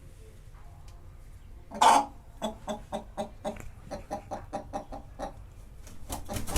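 Hijazi chickens clucking: one loud squawk about two seconds in, then a quick run of short clucks, about five a second, with a few more scattered clucks near the end.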